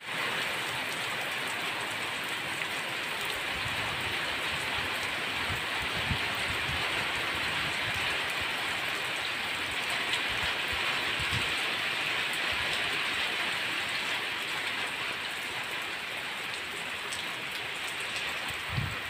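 Steady rainfall, an even dense hiss of rain on foliage and ground, with a few soft low thumps mixed in.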